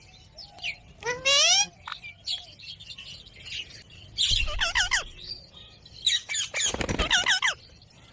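Indian ringneck parakeet calling in separate bursts: a rising call running into a quick series of high chirps about a second in, then groups of repeated squawking calls in the middle and near the end. Dull low knocks sound under the later calls.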